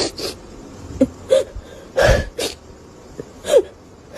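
A person's voice in short, breathy bursts with a bending pitch, about six in four seconds, like gasps or sobs.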